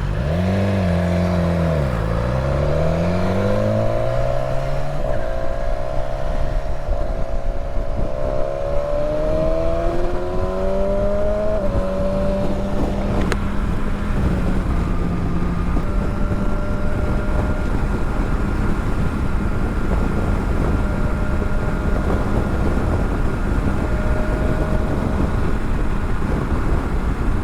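Motorcycle engine heard on the move with heavy wind rush. It slows briefly about two seconds in, then accelerates up through several gears in rising, stepped sweeps, and from about halfway settles into a steady cruise.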